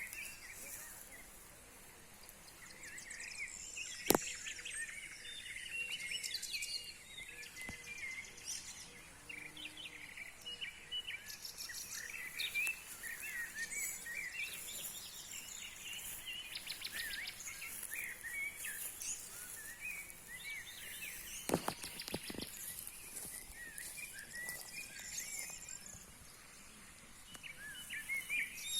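A busy chorus of small songbirds chirping and twittering, with many short, overlapping calls and high trills. A sharp click about four seconds in and a few more clicks near the two-thirds point stand out above the birds.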